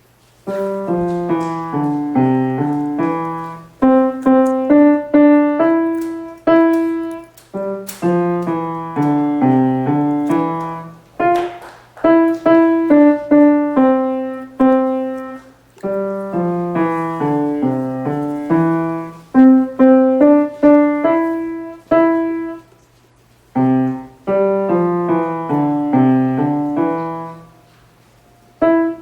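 A child playing a simple tune on the piano in short phrases of struck notes, with brief stops between phrases and a longer pause a little past the middle.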